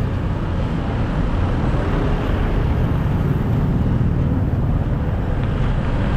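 Steady city street traffic noise heard from a moving bicycle, with a constant low rumble.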